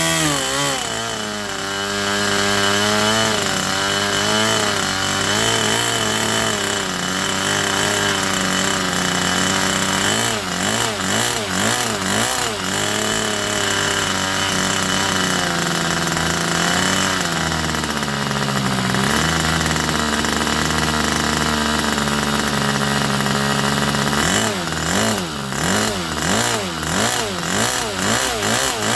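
Irvine 61 two-stroke glow model-aircraft engine running, its speed changing: it drops about a second in, wavers up and down at times, and settles lower about two-thirds of the way through.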